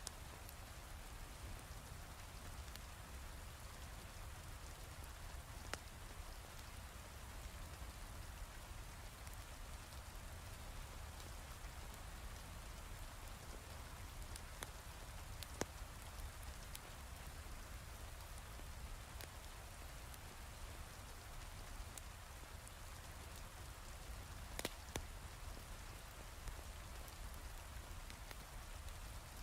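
Steady heavy rain, a constant even hiss with a low rumble beneath it, and a few sharp pops from a crackling fireplace fire, about three times.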